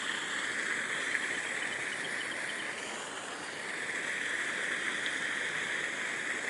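Steady rushing background noise with no clear events.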